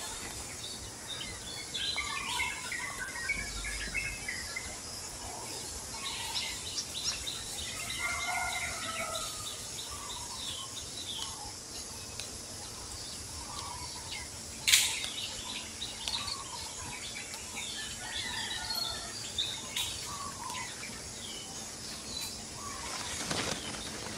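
Outdoor ambience with many small birds chirping and calling on and off over a steady background hiss. A single sharp click or knock comes about 15 seconds in.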